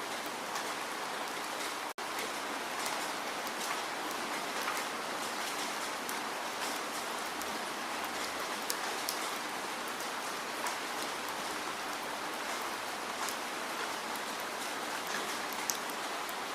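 Steady falling rain: an even hiss dotted with scattered sharp drop ticks. The sound cuts out for an instant about two seconds in.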